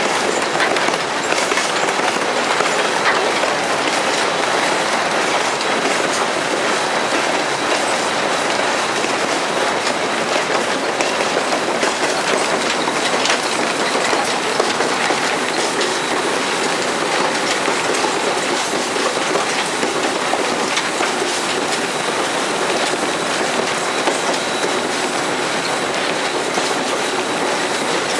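Southern Railway 630, an Alco 2-8-0 steam locomotive, running along the line as heard from inside its cab: a loud, steady din with irregular clicks of the wheels over the rails.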